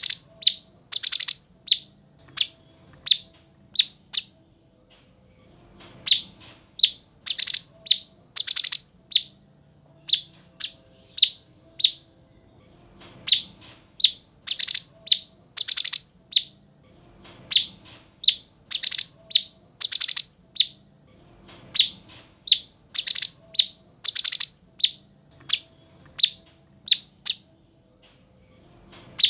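Cucak cungkok singing the same phrase over and over, about every four seconds: a quick run of short, sharp chirps broken by two louder, harsher calls.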